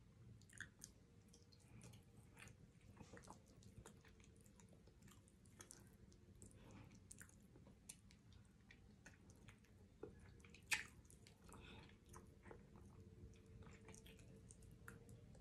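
Quiet chewing and wet mouth sounds of a person eating neck bone meat, with scattered small clicks and one sharper click about two-thirds of the way through.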